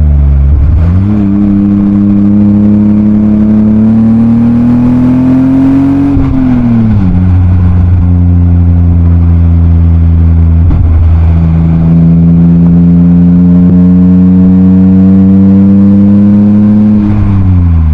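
BMW M52B28 2.8-litre straight-six with a Schmiedmann rear silencer, pulling through the gears. The revs climb for several seconds and drop at a gear change about six seconds in, then climb again and drop at another change near the end.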